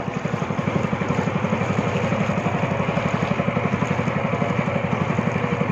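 Speedboat's outboard motor running at a steady speed, its firing coming through as an even, rapid low beat.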